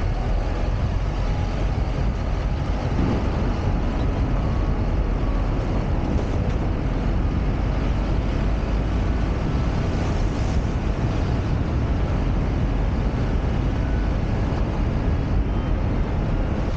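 Steady road and engine noise of a car being driven, heard from inside the cabin, low and even.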